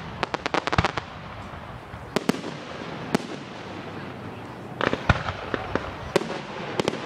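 Aerial fireworks going off: a rapid run of crackling pops in the first second, then scattered single bangs, and another cluster of pops about five seconds in.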